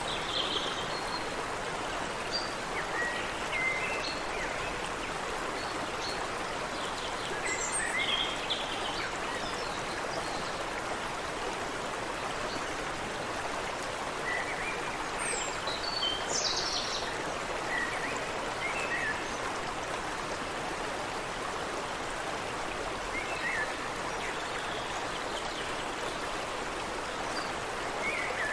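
Steady rush of water running in a stream, with birds chirping now and then over it in short, high clusters of notes every few seconds.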